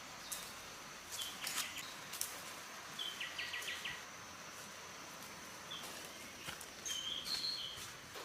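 Forest ambience: scattered short, high bird calls, including a quick trill of about five notes a few seconds in, over a steady high insect tone and a few light clicks.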